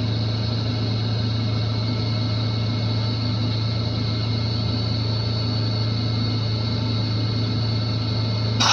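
Steady chiller machinery hum: a strong low hum with several steady high-pitched whine tones above it, unchanging throughout. A short burst of hiss-like noise starts right at the end.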